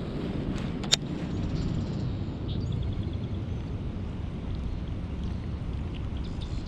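Wind buffeting the microphone, a steady low rumble, with one sharp click about a second in.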